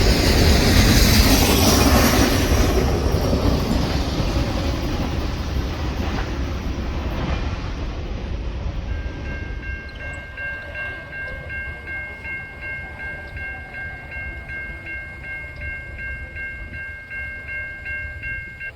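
A passing train, its wheels clattering over the rails, fading away as it recedes. About halfway through, a railroad grade-crossing bell rings with rapid, even dings that carry on over the fading train.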